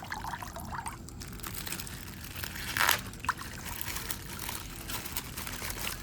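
Plastic bag rustling and crinkling as it is torn open, with a louder rustle about three seconds in.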